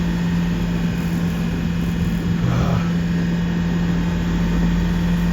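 A motorboat's engine running steadily underway: a constant drone with one strong, unchanging hum.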